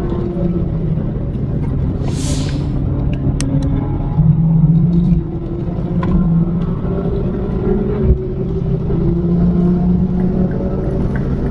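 Turbocharged Mini R56 Clubsport with a carbon flap exhaust, heard from inside the cabin at track speed: the engine drones steadily under road and tyre noise, with a brief hiss about two seconds in. The engine gets louder just before the middle, then drops off suddenly as the throttle is lifted.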